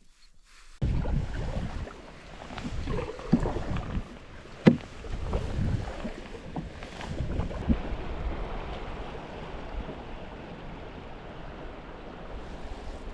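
Water splashing and sloshing around a paddled canoe, with wind rumbling on the microphone. It starts suddenly about a second in, and a few sharp knocks stand out, the loudest near the middle.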